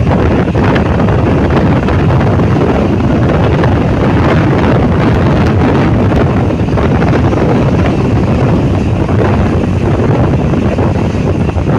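Loud, steady wind buffeting the microphone, mixed with the rumble of a moving vehicle.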